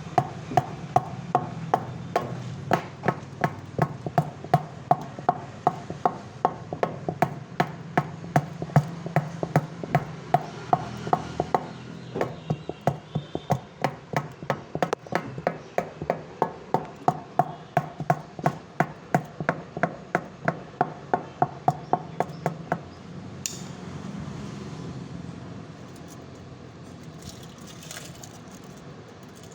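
Steady hammering in a tyre repair, about two blows a second, each with a short ring, stopping about 23 seconds in.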